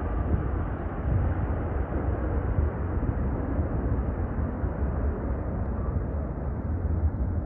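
Jet airliner engines rumbling as the plane passes, a steady noise that slowly dulls and fades as it moves away.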